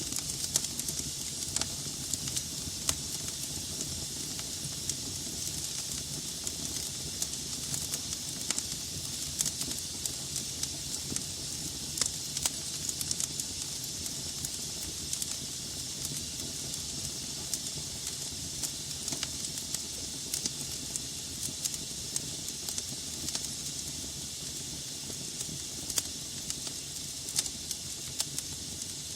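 Wood fire burning in a fireplace: a steady hiss and low rumble of flames with frequent irregular sharp crackles and pops from the logs.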